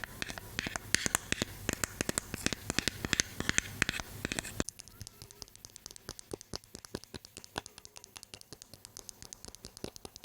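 Close-miked ASMR tapping and scratching: a rapid run of crisp clicks and taps, then, about halfway through, a sudden cut to a quieter, sparser tapping.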